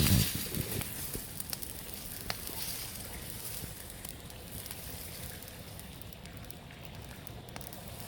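Wood campfire crackling, with scattered sharp pops over a steady hiss. There is a brief low rumble in the first second.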